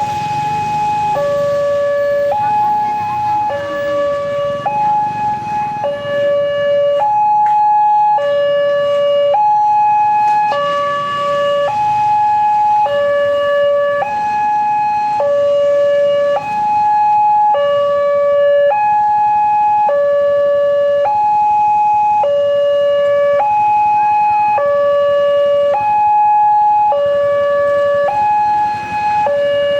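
Railway level-crossing warning alarm sounding continuously: an electronic two-tone signal alternating between a higher and a lower tone, each held about a second.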